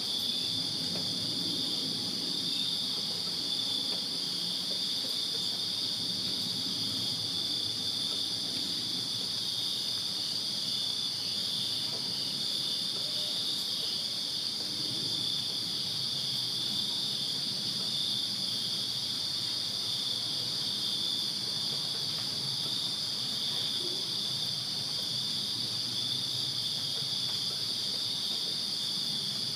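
Crickets chirping in a steady night chorus, several overlapping high trills at different pitches, with a faint low rumble beneath.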